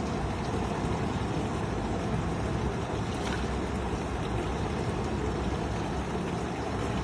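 A boat's engine running steadily at sea, a constant low rumble with no changes.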